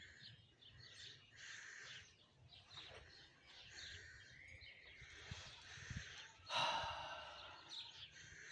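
Faint birds chirping, with a short rush of noise about six and a half seconds in.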